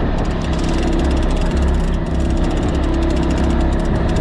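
A fishing boat's engine running steadily at low speed, a constant low hum with a fast, fine ticking over it.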